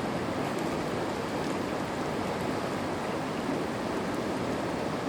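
Steady rush of flowing water in a stream.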